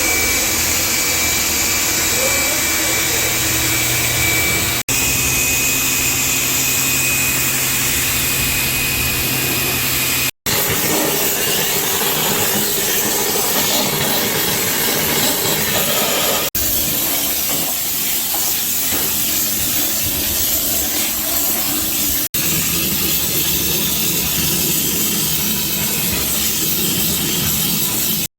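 Powered cleaning equipment running loudly with a steady hiss, in several short clips cut one after another. In the first clips a motor's steady whine and a low hum sound under the hiss.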